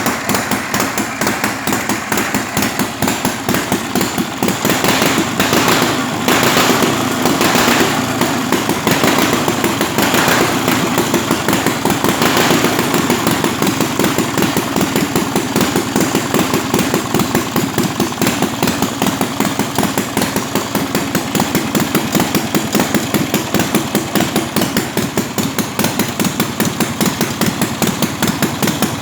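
1927 flat-twin motorcycle engine running on its first start, with a fast, even beat. It is revved in a few short blips in the first half, then settles to a steady idle.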